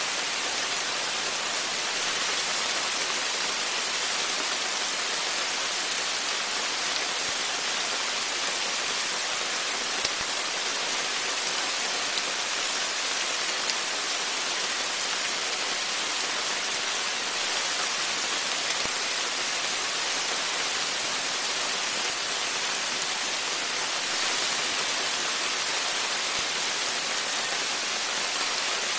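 Steady rain falling, an even dense hiss of drops on the porch and garden, with a couple of single louder drop ticks.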